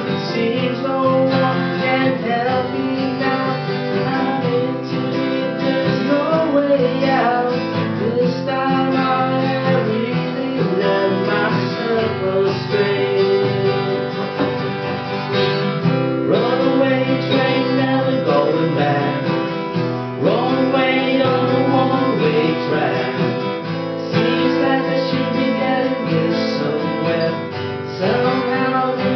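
Acoustic guitar being strummed in a continuous song accompaniment.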